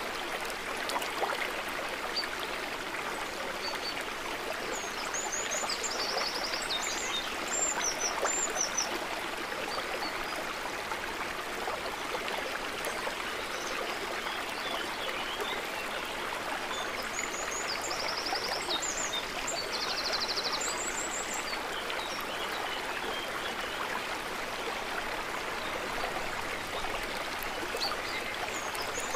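Water trickling and babbling steadily. Short bursts of high chirping calls come in three times: about five seconds in, around the middle, and near the end.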